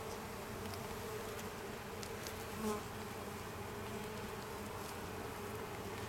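Honeybees from an opened hive buzzing in a steady, dense hum, briefly louder about halfway through.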